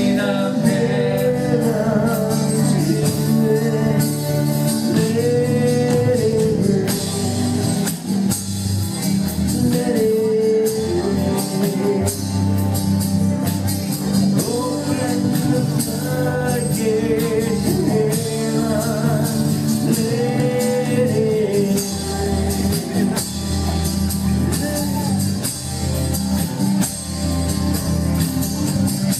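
Live worship band music: a voice sings long, rising and falling lines over sustained chords and a steady percussion beat.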